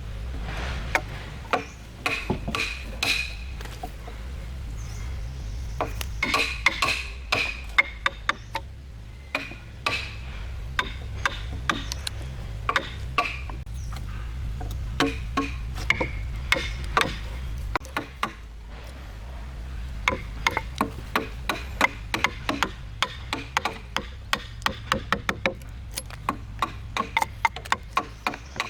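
Irregular sharp knocks and taps of tools working wood, some in quick clusters, over a low steady hum.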